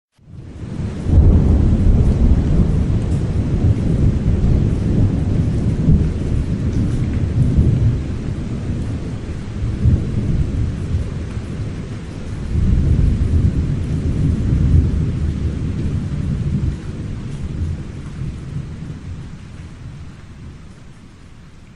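One long roll of thunder over rain. The thunder builds within about a second, rumbles deep with swells near the middle and again a little later, then dies away over the last few seconds.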